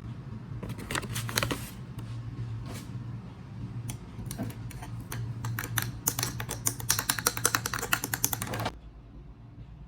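Countertop blender running, its motor humming steadily while chopped fruit and vegetables clatter and rattle against the jar; it switches off suddenly near the end.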